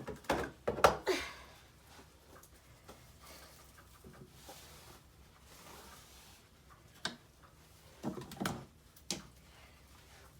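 A few short knocks and clatters: a cluster in the first second and a half, a sharp click about seven seconds in, then another short cluster and a click about eight to nine seconds in.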